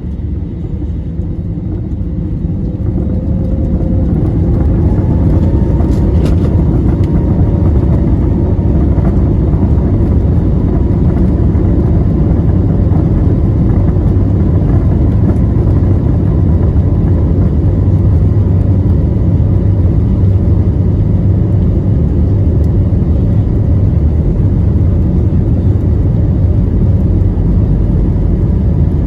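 Airbus A321neo's Pratt & Whitney geared turbofan engines at takeoff thrust, heard from inside the cabin over the wing, with a deep, steady rumble. A faint whine rises as the engines finish spooling up over the first few seconds, then the noise holds loud and level as the aircraft accelerates.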